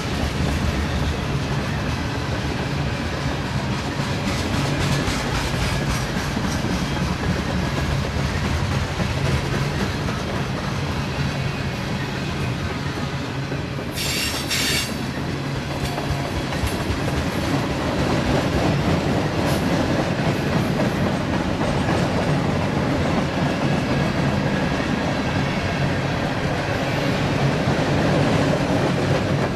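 Freight train rolling past at speed, its steel wheels clattering and clicking over the rail joints in a steady loud rumble. About halfway through there is a brief high-pitched screech from the wheels.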